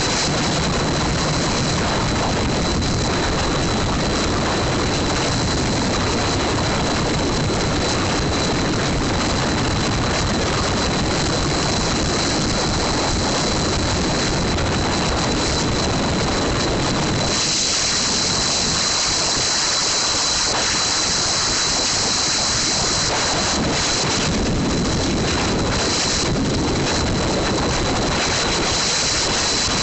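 Loud, distorted roar of wind on the microphone mixed with motorcycle engine noise, as from a small camera or phone carried along with the racing motorcycles. It stays steady at one level throughout, with a thin high whine running under it.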